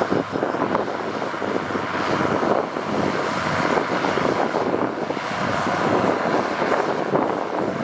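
Heavy construction machinery running steadily, with wind buffeting the microphone.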